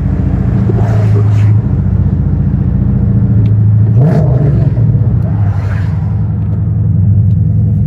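Dodge Charger's 5.7-litre Hemi V8 running steadily while driving, a low, even engine drone, with its pitch rising briefly about four seconds in.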